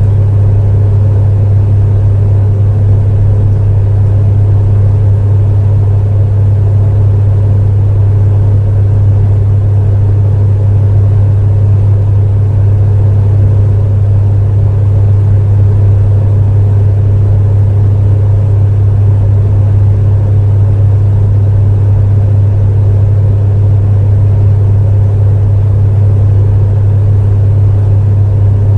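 Space heater running: a loud, steady deep hum with a softer rushing noise above it, unchanging.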